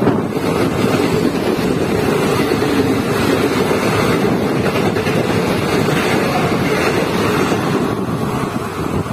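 Express passenger train coaches passing at speed, a loud steady rush of wheels on rail mixed with wind buffeting the microphone. It eases a little near the end as the last coach pulls away.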